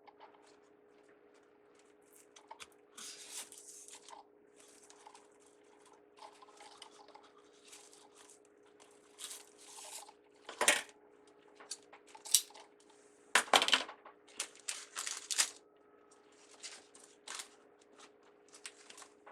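Ribbon being handled and crinkled while a bow is made: scattered short rustles and crinkles, with two sharper knocks partway through, over a faint steady hum.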